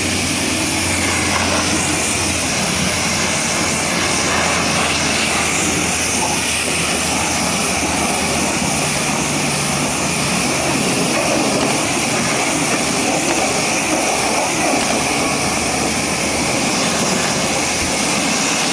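Pressure washer jet spraying water against a truck, a loud steady hiss.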